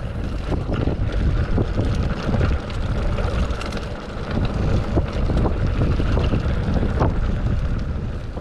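Wind buffeting the microphone of a camera riding along on a bicycle, a steady heavy rumble with scattered small clicks and rattles.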